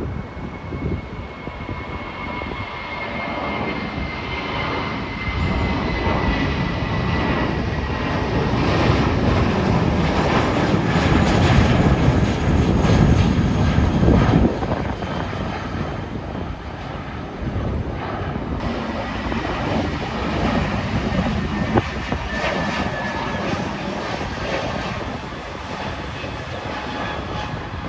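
Jet engines of an Airbus A320-family airliner, a steady roar with a high whine that slowly falls in pitch at first. The roar builds to its loudest around the middle, drops off abruptly, and carries on at a lower steady level.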